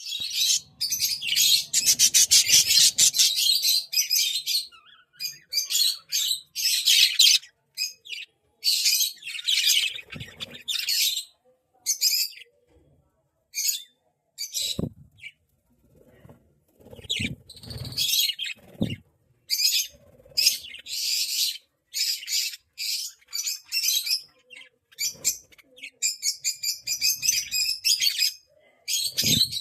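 Budgerigars chattering and chirping in rapid bursts of high, fast-pulsed warbling, with short pauses between bursts and a few faint low thuds.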